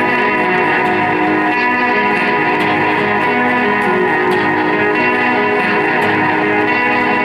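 Live band music led by guitar, a dense sustained wash of chords with effects and echo, steady in level.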